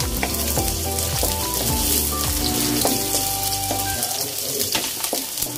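Garlic sizzling in hot oil as it is sautéed, a steady frying hiss, with background music playing under it.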